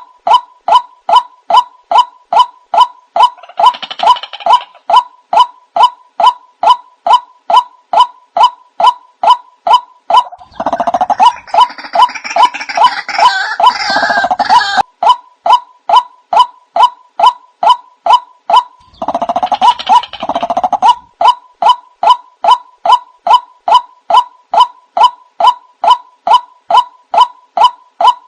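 White-breasted waterhen lure-call recording: an even series of calls about two a second. A denser, harsher burst of calling joins in briefly about four seconds in, for several seconds from about ten seconds in, and again around twenty seconds in.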